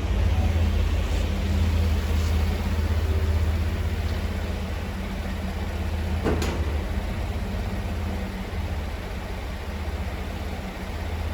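Steady low rumble of a car driving, engine and road noise, with a single sharp click about six seconds in.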